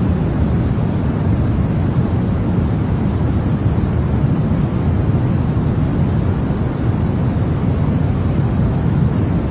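Continuous white noise: a steady, even rushing hiss with most of its weight in the low range, unchanging throughout.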